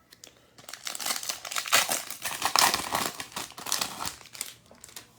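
Foil wrapper of a 2022 Bowman baseball card pack crinkling as it is torn open, a dense crackle lasting about four seconds.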